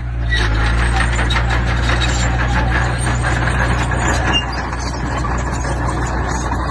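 Diesel engine of heavy earthmoving machinery running steadily under a constant low hum, with continuous metallic clanking and rattling over it; the clatter eases slightly a little past halfway.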